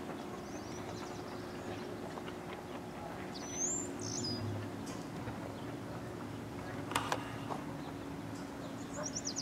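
Birds chirping: a few short high calls, one about three and a half seconds in and a falling run of notes near the end, over a steady low hum. A single sharp knock about seven seconds in.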